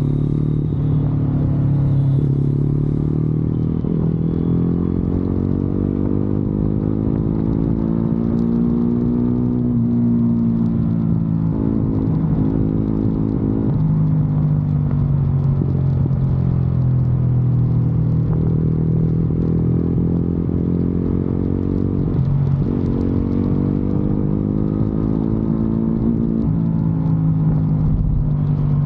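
Motorcycle engine running on the move, its note rising and falling as the throttle changes, with brief dips about twelve and twenty-two seconds in.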